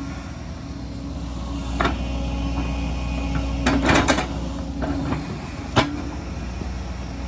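Excavator's diesel engine running steadily under load, with sharp knocks from the working machine: one about two seconds in, a quick cluster around four seconds, and a single loud one near six seconds.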